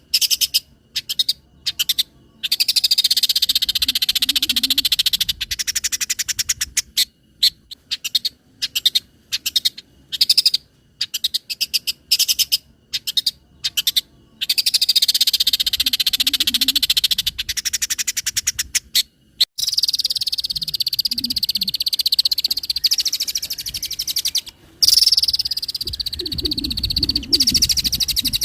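Long-tailed shrike (cendet) singing fast, rattling, chattering trills in bursts of a few seconds with short pauses between them, with a lower, rougher note near the end.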